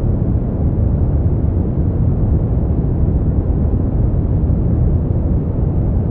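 Steady brown noise: a deep, even rumbling hiss with most of its weight in the bass and little above the midrange.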